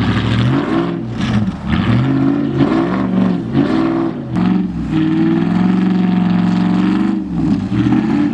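Lifted pickup truck's engine revving hard, rising and falling again and again, then held high for a couple of seconds near the middle, as the truck rocks back and forth trying to get free of deep snow. A hiss runs above the engine throughout.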